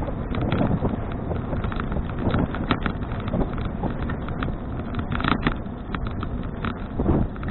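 Wind buffeting a helmet or handlebar action camera's microphone while riding a bicycle, with a steady low rumble of the tyres on the road and many short sharp clicks and knocks scattered throughout.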